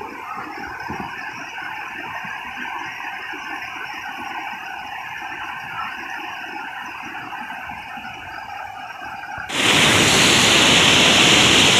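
Rushing river swollen by heavy rain: a steady, somewhat muffled rush of water. About nine and a half seconds in it jumps abruptly to a much louder, fuller roar of water.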